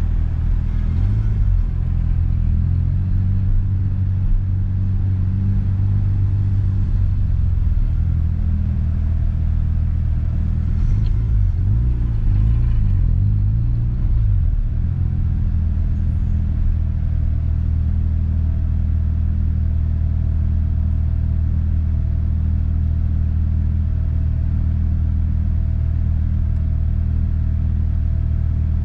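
A 1992 Mazda RX-7 FD's twin-rotor rotary engine, heard from inside the cabin, running in slow stop-and-go traffic. Its note rises and falls briefly about a second in and again around the middle, then settles into a steady idle.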